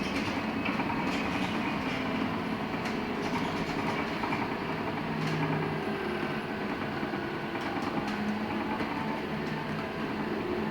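Cabin of a LiAZ-6274 electric bus on the move: steady road and tyre noise with a faint electric-motor hum and a few short rattling clicks from the body and fittings.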